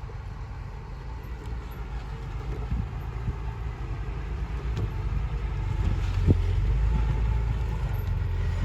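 Diesel engine of a heavy earthmoving machine running with a low rumble that grows steadily louder, with a sharp knock about six seconds in.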